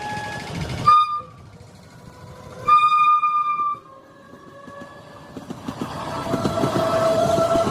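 Train horn giving a short blast, then a longer blast of about a second on one steady pitch. After that the rumble of a train builds steadily louder as it approaches.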